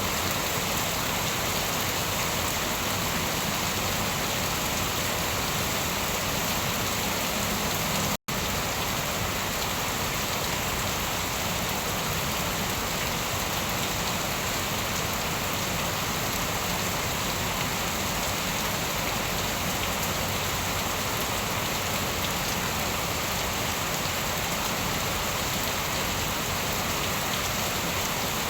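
Steady, heavy rain falling on a surface, an even hiss of drops with no thunder. It cuts out for an instant about eight seconds in.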